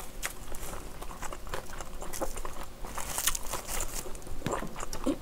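Close-miked chewing of kimchi fried rice, with many small wet mouth clicks. About three seconds in comes a brief crisp crinkling as a sheet of dry, unroasted laver (gim) is handled.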